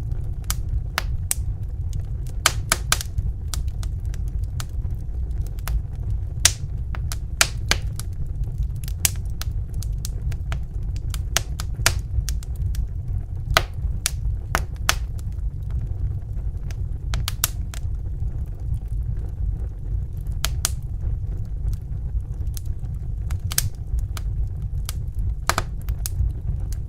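Wood fire crackling in a fireplace: irregular sharp pops and snaps, a few louder than the rest, over a steady low rumble of burning.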